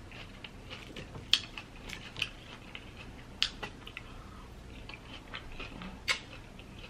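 Fork clicking against the plate as salad is speared, then close-miked wet chewing of a mouthful of salad, with a few sharp crunches.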